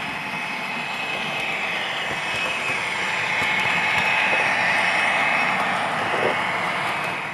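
A Hornby Twin Track Sound decoder in an OO gauge Class 67 model plays the diesel engine sound through the model's small speaker. The engine note rises in pitch and loudness after about two seconds, as if notched up, then falls away near the end.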